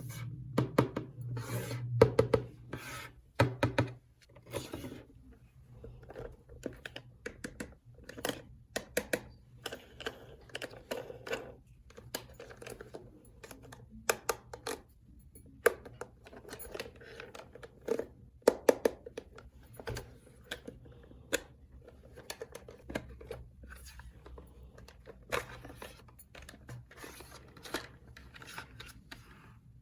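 Small plastic toy pieces being handled: irregular clicks, taps and rustling all through.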